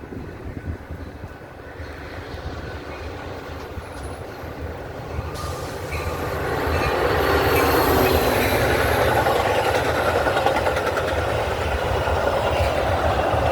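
A train approaching and going past, growing louder over the first seven seconds or so and then holding at a steady rumble with wheel clatter on the rails.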